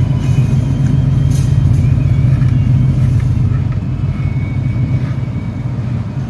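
A vehicle engine running steadily: a low, continuous drone that eases slightly in the second half.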